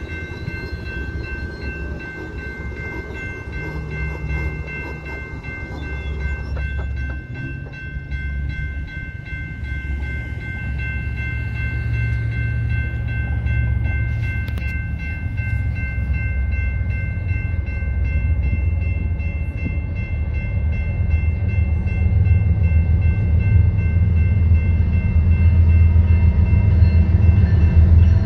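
BNSF freight train's diesel locomotives approaching a grade crossing, a low rumble growing steadily louder toward the end. Steady high tones from the crossing's warning signals sound over it for the first half, then fade.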